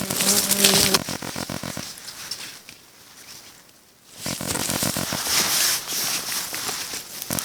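Camping hammock and its straps being handled and pulled tighter: nylon fabric and webbing rustling and rubbing, with a short creak-like sound at the start. It goes quiet for a moment around the middle, then the rustling picks up again.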